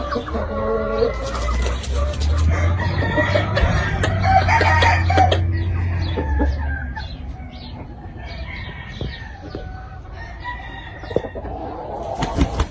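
Gamefowl roosters crowing and chickens clucking, with a low rumble under the first half.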